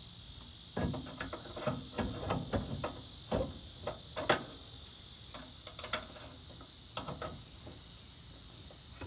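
Irregular metallic clicks and knocks from hands working a riding lawn mower's choke linkage to wedge it open. They thin out over the last couple of seconds. Crickets chirr steadily behind.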